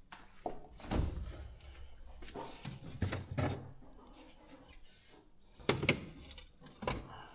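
A series of short knocks and clunks, about five spread over several seconds, the loudest near the start and about two-thirds of the way in.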